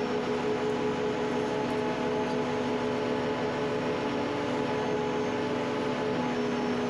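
Skid steer's diesel engine running steadily at a constant speed.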